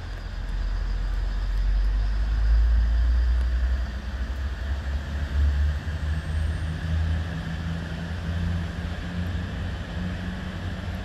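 Regional multiple-unit train pulling away from a station platform: a deep engine drone, loudest about three seconds in, that slowly fades as the train moves off.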